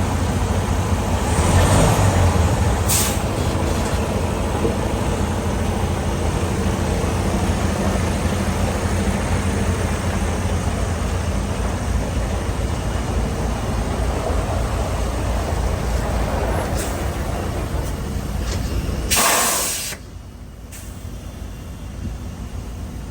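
Semi truck's diesel engine running steadily, with a short, loud hiss of air from the air brakes about nineteen seconds in, after which the sound drops off.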